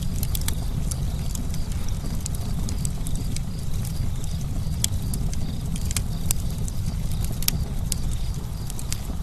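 Campfire burning: a steady low rumble of flames with sharp, irregular crackles and pops, several a second, from the burning wood.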